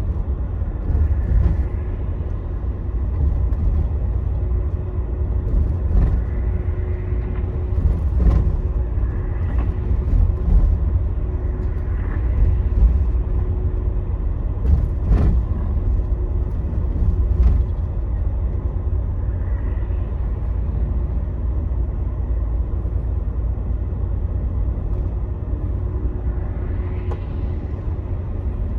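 Scania Astromega double-decker highway bus driving, heard from inside: a steady low engine and road rumble with a faint hum, and now and then a sharp knock or rattle.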